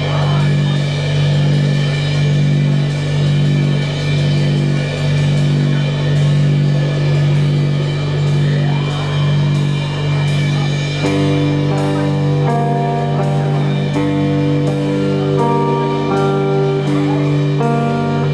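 A live rock band playing: a loud, steady low drone pulsing in a slow rhythm with drums. About eleven seconds in, a repeating stepwise melody of held notes joins it.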